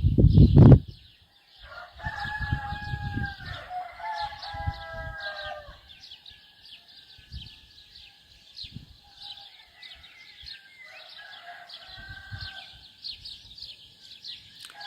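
A rooster crows twice: a long crow starting about two seconds in and a shorter one around eleven seconds. Small birds chirp steadily throughout, and there is a brief low rumble at the very start.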